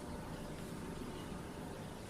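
Faint, steady background hiss of room tone, with no distinct event.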